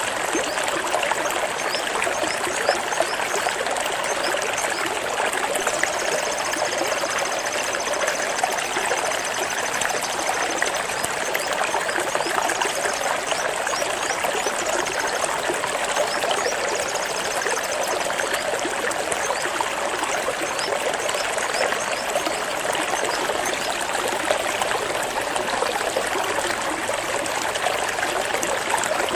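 Water flowing in a steady, unbroken stream, played as a flowing-water therapy track for songbirds.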